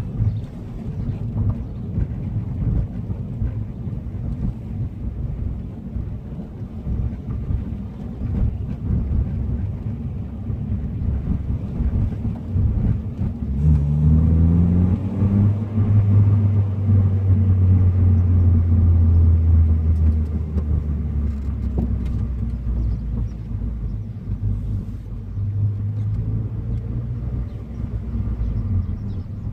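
Honda VTEC car engine and exhaust driving along with a steady low rumble. About halfway through, the revs climb quickly, then hold at a louder, steady drone for several seconds before easing off.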